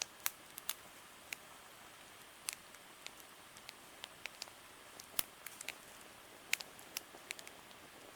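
Wood campfire crackling: irregular sharp pops and snaps, a few of them louder, over a faint steady hiss.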